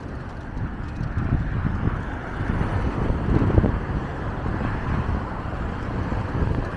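Wind gusting against the microphone in irregular low rumbles, over the steady noise of city street traffic.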